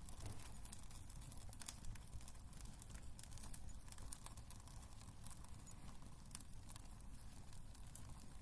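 Wood fire crackling in a fireplace: irregular, scattered sharp pops and snaps over a low, steady rumble.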